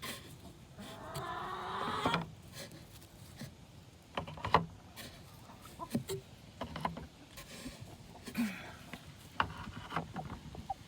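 Eggs being gathered by hand from hens' nest boxes: scattered light clicks and knocks, with a brief rasping sound about a second in.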